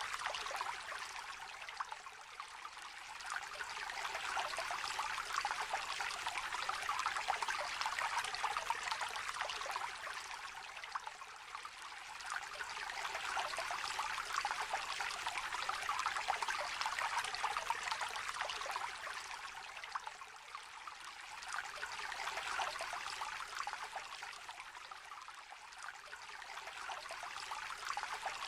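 Small river or stream trickling and babbling over stones, a steady gurgling rush that swells and eases gently every several seconds.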